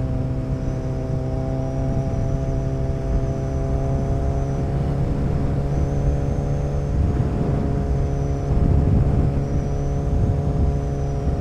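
Suzuki Hayabusa's inline-four engine running steadily at cruising speed, heard from the rider's seat over wind and road rush, its pitch drifting slightly lower.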